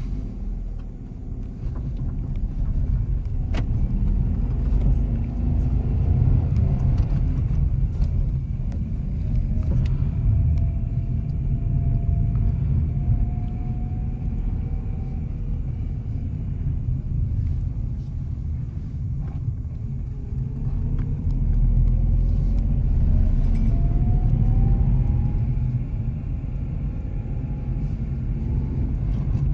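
Nissan Magnite's three-cylinder engine and tyre rumble as the car drives, the engine note rising twice as it pulls and accelerates, with a few short sharp clicks.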